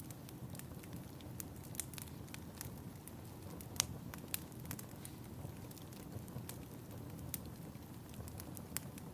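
Wood fire crackling: a steady soft hiss of flames with scattered sharp pops and snaps at irregular intervals, one louder pop about four seconds in.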